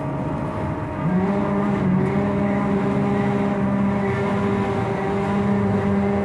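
Noise of a Scania trolleybus in motion, heard from inside: a running rumble, joined about a second in by a steady droning tone that holds.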